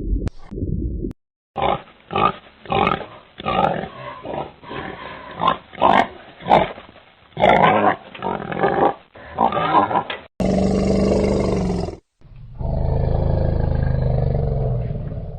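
Animal calls from a string of short clips. First comes a run of many short calls lasting several seconds, then a pitched call of about a second and a half, then a long, low, drawn-out call.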